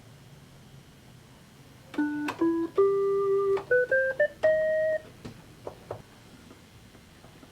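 Casio SA-75 electronic keyboard playing a short rising run of about seven notes, each a clear electronic tone, followed by a few soft clicks of its keys.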